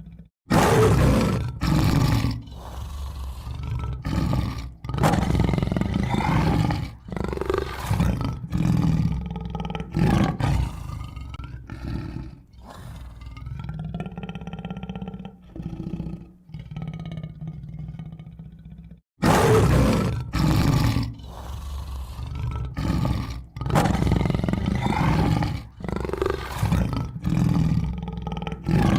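Tiger roaring and growling, a run of loud roars each starting suddenly about every one to two seconds. The sequence breaks off briefly about two-thirds of the way through and starts over as a repeated sound-effect loop.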